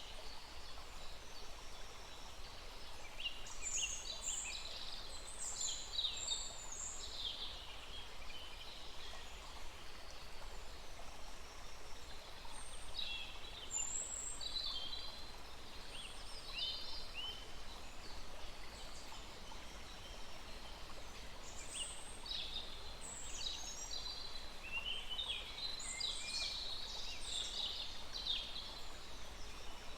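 Several songbirds calling and singing in bursts of short high chirps and trills over a steady hiss of flowing stream water.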